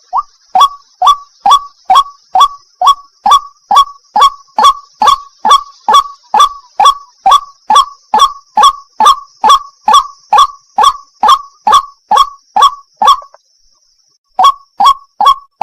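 White-breasted waterhen's 'wak wak' call, loud sharp calls repeated evenly at about three a second over a faint steady high hiss. The calls stop for about a second and a half near the end, then start again.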